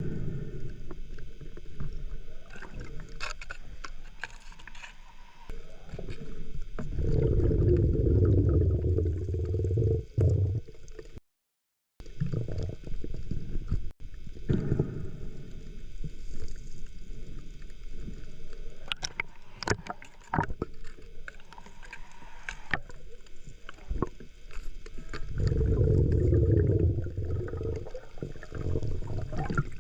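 Underwater gurgling and bubbling from a scuba diver's breathing, with two long loud swells of exhaled bubbles and smaller ones between, over scattered clicks and knocks.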